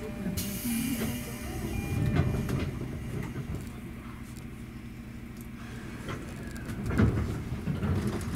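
Inside a 205-series electric commuter train standing at a platform: a low rumble throughout, with a short hiss about half a second in and heavier knocks about two and seven seconds in.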